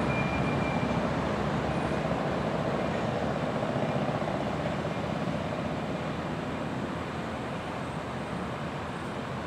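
Train rolling past with a steady rumble that slowly fades, with a brief high squeal near the start.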